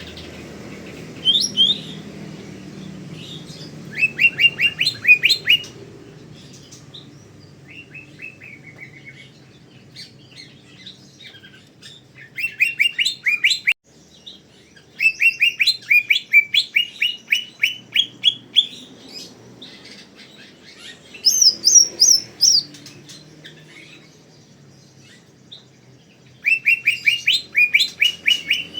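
Cucak ijo (green leafbird) singing in bursts of rapid chirping notes. About half a dozen phrases of fast repeated notes, each a second or several seconds long, are separated by short quieter pauses. One phrase a little past the middle sits higher in pitch than the rest.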